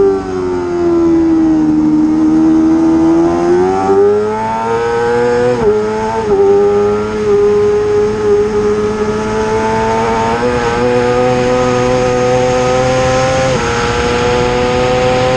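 Racing motorcycle engine held at high revs: its pitch sags over the first few seconds and climbs again, then holds high with brief steps at about six, ten and a half and thirteen and a half seconds in, like gear changes, while a rushing hiss of wind builds toward the end.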